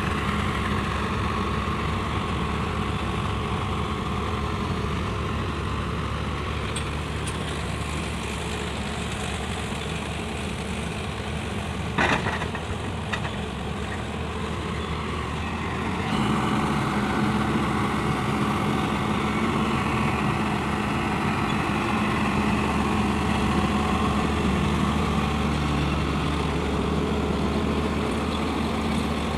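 Heavy diesel engine of a JCB 3DX backhoe loader running steadily at work, with one sharp knock about twelve seconds in. From about sixteen seconds the engine runs harder and louder.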